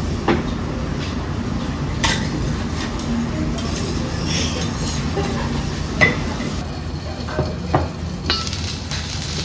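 Food sizzling and frying, with metal utensils and dishes clinking a handful of times.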